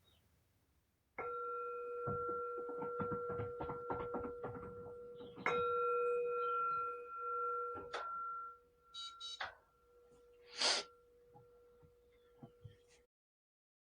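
A meditation bell struck twice, about a second in and again about five seconds in, each time ringing on at a steady pitch. Light knocks and rustles sound over it, and the recording cuts off suddenly near the end.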